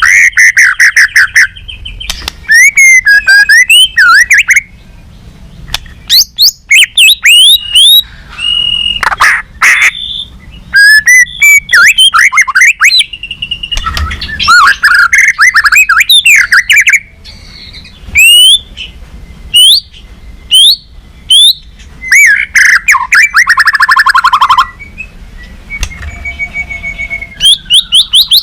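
White-rumped shama singing loudly: a varied song of quick rising and falling whistles, fast runs of repeated notes and chattering phrases, broken by short pauses.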